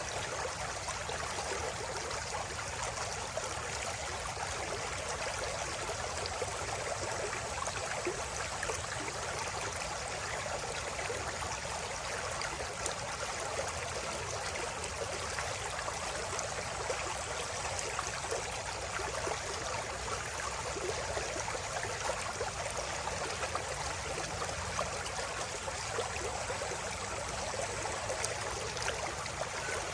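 River water flowing and babbling over stones, a steady rushing with constant fine splashing that never lets up.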